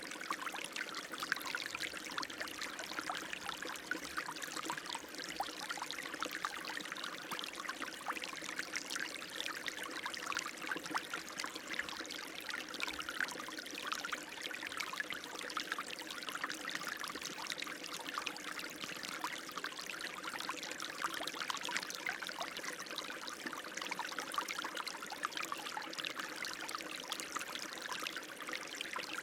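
Running water, a steady splashing trickle with a light, bright spatter of droplets and little low rumble.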